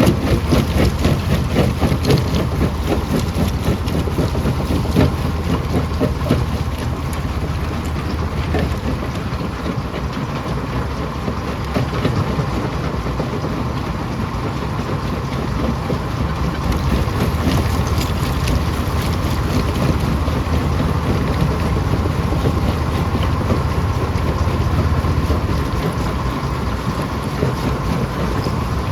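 Stone crusher running under load: a steady low machine drone with a constant rattle and knocking of rocks being crushed.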